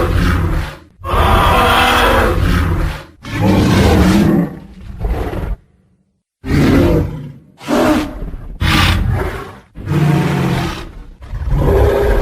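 Tyrannosaurus rex roar sound effects: a string of loud, rough roars and growls, each about one to two seconds long, following one another with short breaks and a brief silence about six seconds in.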